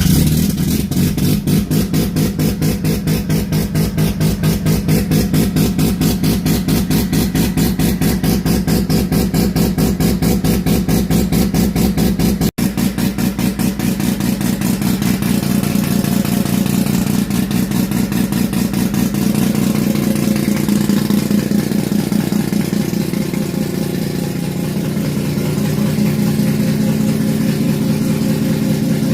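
Mazda RX-8's two-rotor Renesis rotary engine running at a high, steady cold-start idle just after starting, with a fast, even pulsing exhaust note.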